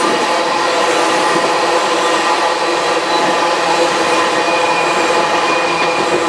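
Tank cars of a freight oil train rolling past: a steady rumble of steel wheels on rail, with faint steady ringing tones over it.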